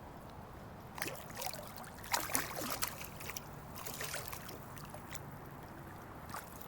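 Water splashing in a run of short bursts from about a second in, as a hooked smallmouth bass thrashes at the surface while it is brought to hand, over the steady rush of a shallow creek.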